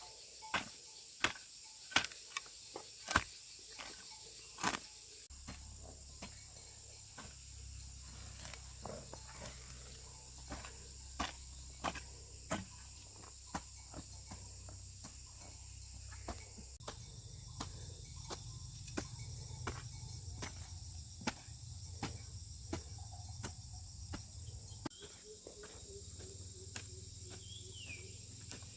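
Insects chirring steadily, with irregular sharp knocks, roughly one a second, standing out above them.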